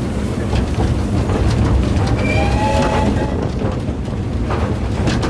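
Narrow-gauge heritage passenger train running along the line, with a steady low rumble of the carriages and faint clicks from the wheels on the track.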